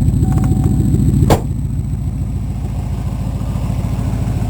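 1988 Ford Crown Victoria's V8 idling steadily after a hard start from sitting for months. A single sharp knock comes about a second in, after which the engine sounds a little quieter.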